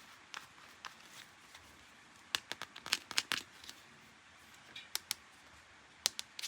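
Hands handling plastic toy packaging and parts: a scatter of light clicks, taps and crinkles, busiest from about two to three and a half seconds in, with a few more near the end.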